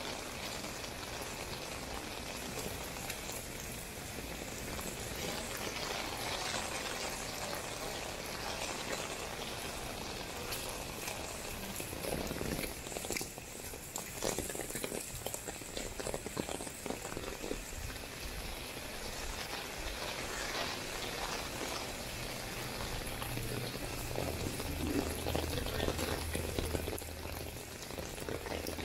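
Rain falling steadily, a dense even hiss of drops on hard surfaces. A low steady hum joins about two-thirds of the way through.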